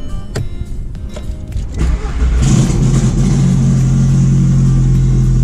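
Big-turbo Volkswagen Jetta 1.8T four-cylinder on E85 firing up on a cold start: it catches about two and a half seconds in and settles into a steady fast idle.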